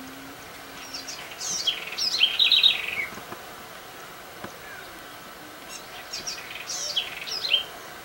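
A songbird singing two quick phrases of sharp, descending chirping notes, one starting about a second in and the other about six seconds in.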